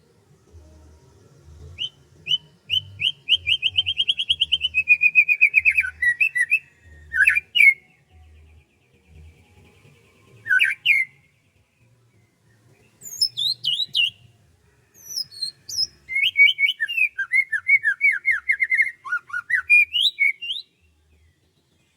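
Songbird singing in long phrases of fast repeated chirping notes, with pauses between phrases. The phrases run about two seconds in, again briefly around the middle, and once more near the end.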